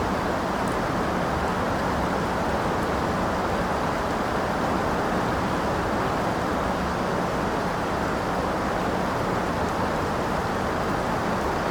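Steady rain, an even hiss with no breaks and a few faint drip ticks.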